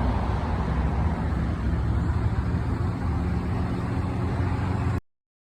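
Train running past with a steady low rumble, cutting off suddenly about five seconds in.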